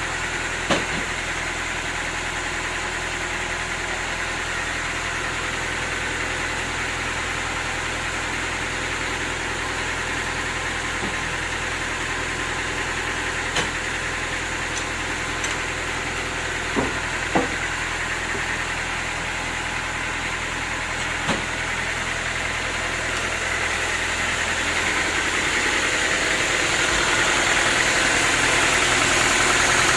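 Sawmill machinery running steadily, with a handful of sharp knocks. It grows gradually louder and brighter over the last several seconds.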